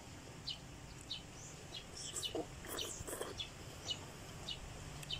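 Faint background bird sounds: short high chirps about every half second, with a few chicken-like clucks in the middle.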